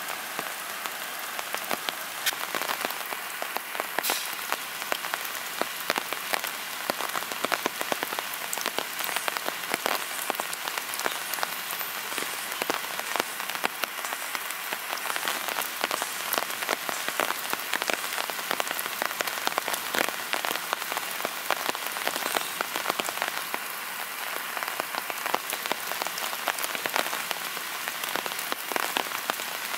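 Steady rain falling, with a dense scatter of individual drops striking close by.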